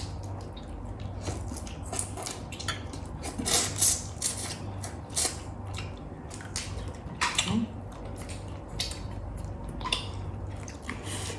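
Close-up eating sounds: irregular chewing with sharp clicks and crunches of food, utensils and dishes, over a steady low hum.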